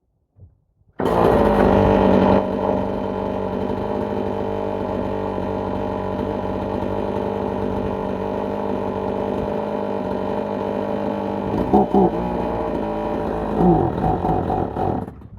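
Two-stroke chainsaw on a chainsaw mill running at steady high revs as it cuts through a log, starting about a second in. Its pitch wavers briefly twice near the end, and then it cuts out.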